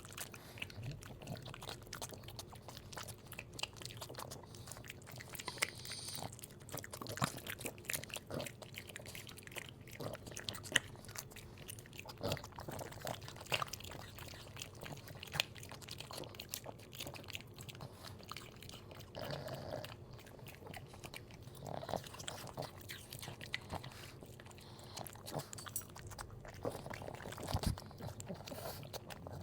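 A Boston Terrier chewing and crunching food: irregular crunches and smacking bites throughout.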